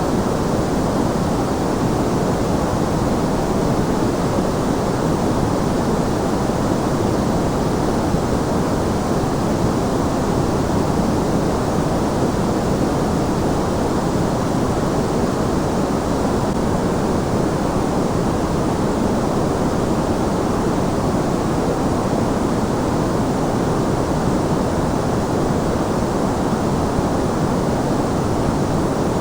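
Continuous white noise for sleep: an even, unbroken hiss that never changes, weighted toward the low and middle range rather than a bright treble hiss.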